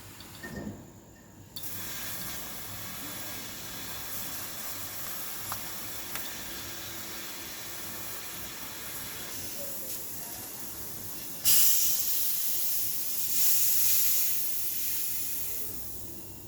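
Pressurised gas hissing out steadily during work on a refrigerator's sealed system. The hiss starts suddenly about a second and a half in and turns much louder about two-thirds of the way through before easing off.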